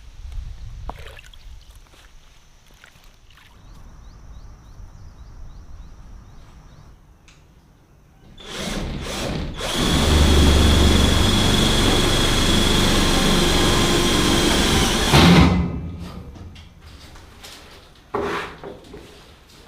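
A small motor, most likely a power tool, runs loud and steady with a high whine for about six seconds, starting about eight seconds in and then cutting off. A couple of short knocks follow near the end.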